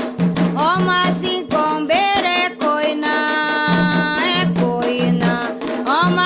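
Afro-Brazilian ritual music for Xangô: drums beating a steady rhythm under singing voices that slide up into notes and hold them.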